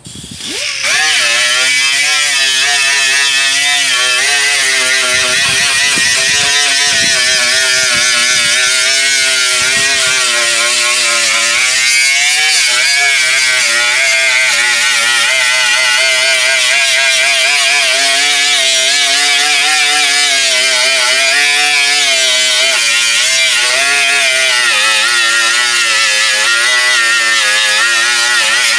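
Power grinder with a 36-grit disc spinning up about a second in, then running steadily as it grinds paint off a steel car tailgate down to bare metal. Its whine wavers in pitch as the pressure on the disc changes.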